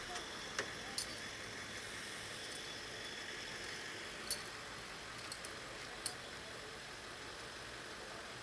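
Steady outdoor street hiss broken by about five short, sharp clinks like glass or metal, spread irregularly through the first six seconds.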